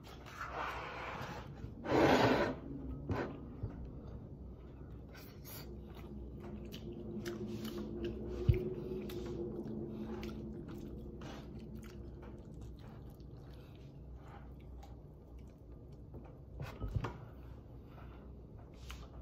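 Close-up mouth sounds of a man chewing roast chicken, with small wet clicks and smacks as he picks the meat apart with his fingers. A short loud burst of noise comes about two seconds in, and a faint low hum runs for several seconds in the middle.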